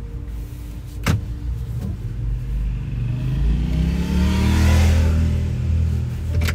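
A motor vehicle's engine running and then accelerating, its pitch rising and loudest about five seconds in, with a single sharp click about a second in.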